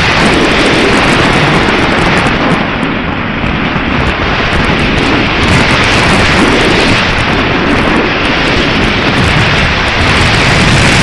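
Strong wind buffeting the microphone: a loud, rough rushing that eases briefly about three seconds in, then picks up again.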